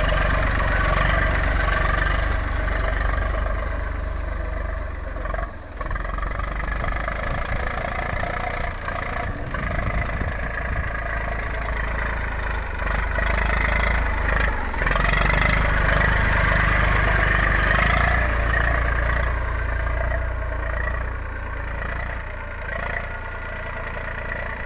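Eicher 380 tractor's diesel engine running steadily, its level shifting with load, with a brief dip about five seconds in and a louder stretch in the middle.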